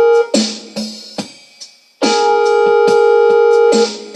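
Electronic keyboard backing music. A held synth chord sounds for about two seconds, then gives way to a few sharp drum hits that die away, in a repeating pattern.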